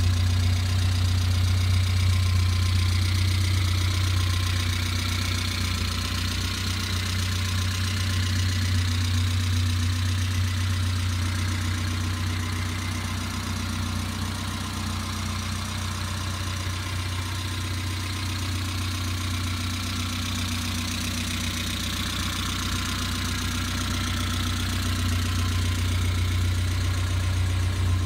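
1973 Bond Bug 700ES's Reliant 700 cc four-cylinder engine idling steadily.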